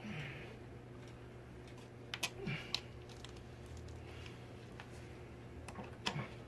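A few sharp clicks and taps of small hardware and tools being handled while a ceiling fan is assembled and mounted, in two clusters: one a couple of seconds in and one near the end.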